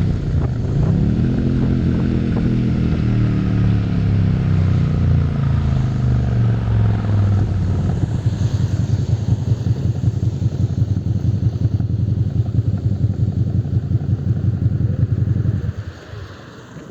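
Suzuki SV650's V-twin engine revving briefly, then its pitch falling for several seconds as it winds down, settling into a steady, uneven pulsing idle. The engine sound drops off sharply about a second before the end.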